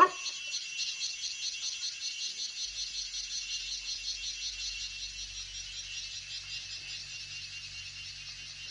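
A chorus of crickets chirring steadily in fast, high-pitched pulses, about five a second. A sharp loud click comes right at the start, and a faint low hum comes in about three seconds in.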